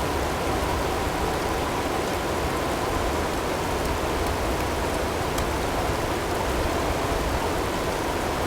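Snowstorm ambience: a steady, even rush of wind and blowing snow with no distinct gusts, and a faint steady tone blended in underneath.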